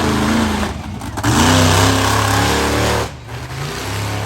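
Monster truck engine revving in two bursts, a short one at the start and a louder one lasting nearly two seconds that cuts off about three seconds in.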